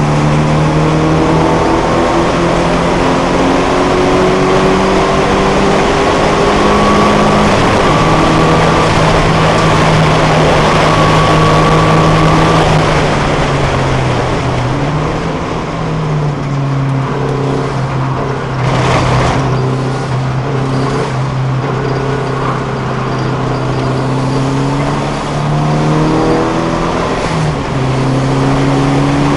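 Datsun 510's 1600 four-cylinder engine driven hard on track, heard from inside the cabin. Its pitch climbs and holds, dips briefly about halfway through and again near the end, then climbs once more. A short rush of noise comes about two-thirds of the way in.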